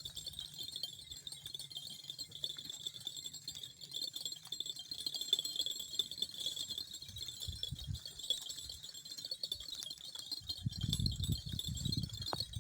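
A steady, high-pitched chorus of insects chirring, with a few low rumbles near the end.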